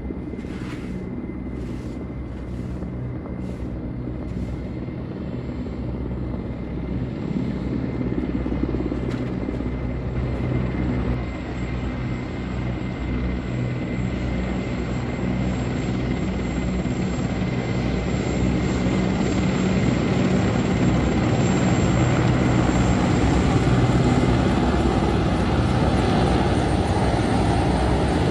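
Military aircraft flying overhead: a steady engine and rotor drone that grows gradually louder as the aircraft approaches.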